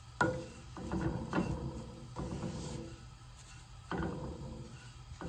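A utensil stirring and scraping shredded kataifi pastry around a pan of melted butter, heard as several separate scrapes and knocks a second or so apart.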